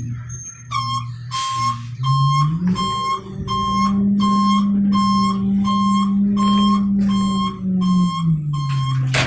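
Garbage truck's reversing alarm beeping about twice a second while the diesel engine revs up about two seconds in, holds, and drops back near the end. A sharp click sounds just before the end.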